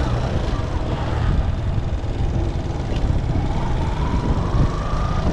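Motorcycle riding on a road: steady engine rumble mixed with wind and road noise. A thin whine rises slowly in pitch over the last second or so.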